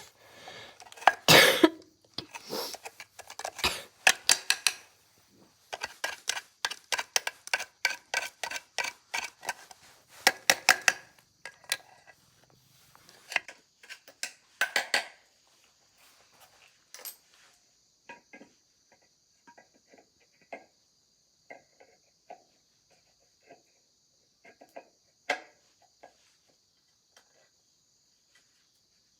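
Metal hand tools clinking and tapping against bicycle parts in quick irregular strokes, dense for the first half, then sparse scattered ticks. About halfway through, a steady high insect chirring comes in behind them.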